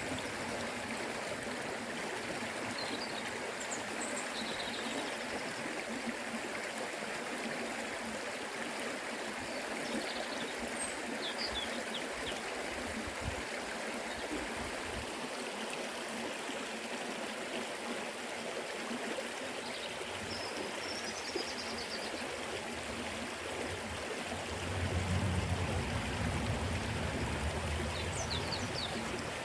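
Forest river flowing steadily over rocks, an even rushing and burbling of water. A few faint, short high chirps come through it, and a low rumble swells near the end.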